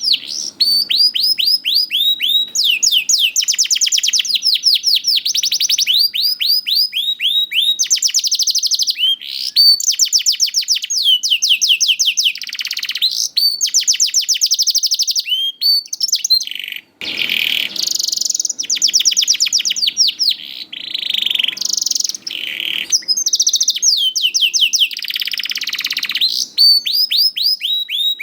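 Domestic canary singing a long, continuous song of fast trills and rapid runs of repeated falling notes, with a brief break about two-thirds of the way through. It is a lure song, the kind played to set reluctant canaries singing.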